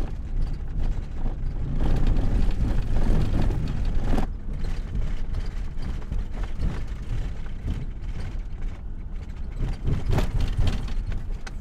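Camper van driving over a potholed dirt track: steady engine and tyre rumble with irregular knocks and rattles as it jolts over the bumps.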